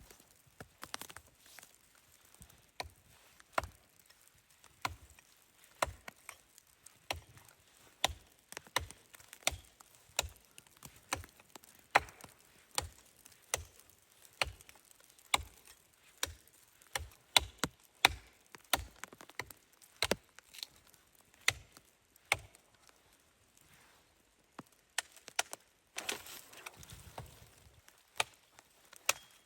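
Wood being chopped: a long run of sharp strikes, roughly one or two a second, that pauses near the end, followed by a brief rough scraping noise and one last strike.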